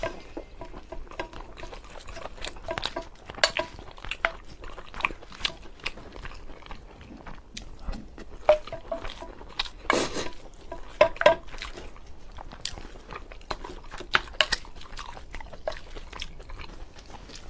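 A person chewing and eating braised pork over rice close to the microphone. The mouth sounds come as a steady run of irregular short clicks and wet smacks.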